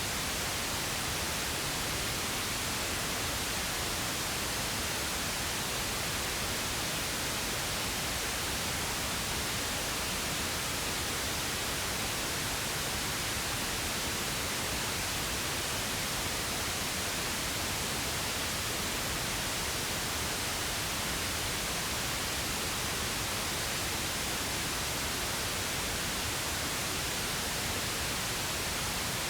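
Synthetic pink noise: a steady, unchanging hiss spread evenly across the whole range, with no events or variation.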